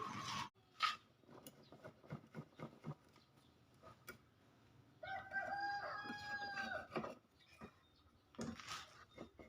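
A rooster crowing once, a single drawn-out call of about two seconds in the middle. A sharp click comes about a second in, with a few fainter knocks scattered around it.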